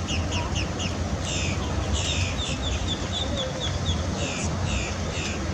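A bird calling in quick series of short, high chirps, several a second, over a steady low rumble.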